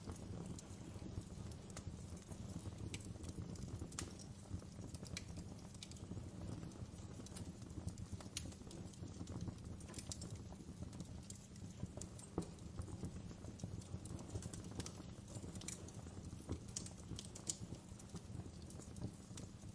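Wood fire burning in a fireplace: a steady low rumble of the flames with irregular sharp crackles and pops from the burning wood and embers.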